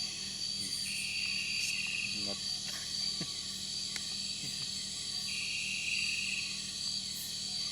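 Night-time rainforest insects: a steady high-pitched drone, with a second, lower insect trilling twice, each trill about a second long, one early and one past the middle.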